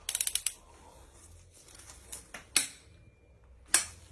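A hand ratchet clicking in a quick run of about eight clicks, then two single sharp clicks later on, while cylinder head bolts are tightened a further 90 degrees.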